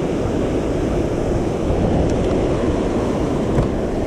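Steady rush of moving water at a low-water dam, mixed with wind noise on the microphone.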